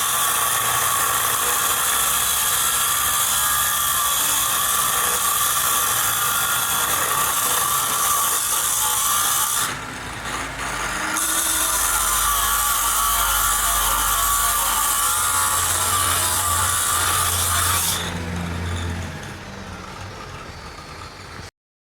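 A power tool running steadily with a high-pitched whine. It stops for about a second and a half near the middle, then runs again. It winds down a few seconds before the end, leaving a quieter low hum that cuts off abruptly.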